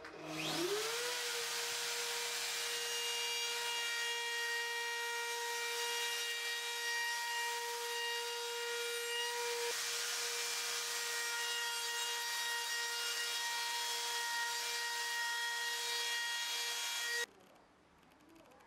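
An electric woodworking power tool spinning up within the first second, then running steadily with a high whine while cutting oak; the sound cuts off suddenly shortly before the end.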